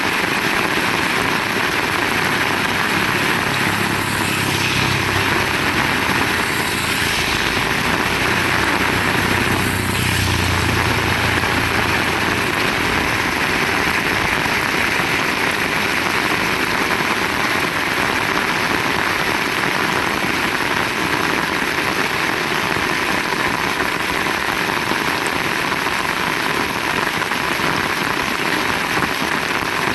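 Heavy rain falling steadily, a constant loud hiss. A low rumble rises under the rain from about three seconds in and fades out around twelve seconds in.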